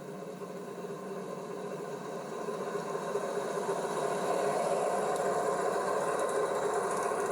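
A train running with a steady clatter and rattle, growing louder as it approaches.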